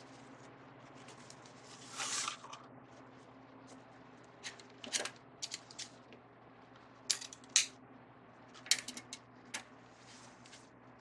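Ribbon being handled and cut with scissors: a rustle about two seconds in, then a series of short, sharp snips and clicks, the loudest two a little past the middle.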